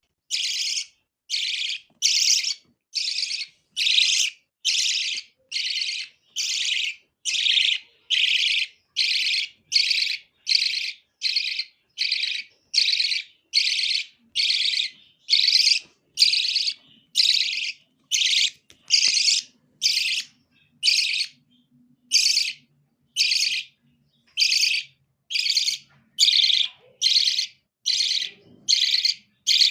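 Young birds calling in harsh, raspy chirps, repeated in an even rhythm a little more than once a second.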